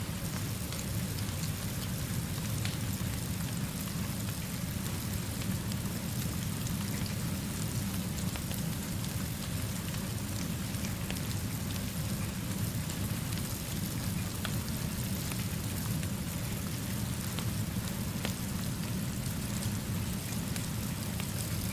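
Steady rainfall, an even hiss with a low continuous rumble underneath and a few faint scattered ticks. It does not change.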